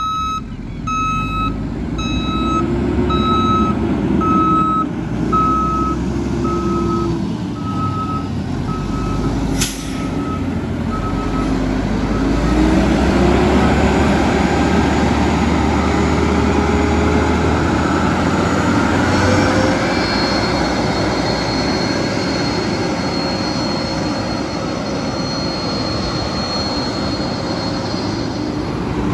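Mack LE garbage truck with a Heil rear-loader body: its reversing alarm beeps about once a second for the first eleven seconds, with a sharp knock near ten seconds in. Then the engine revs up and runs hard as the packer compacts trash, with a steady high whine through the second half.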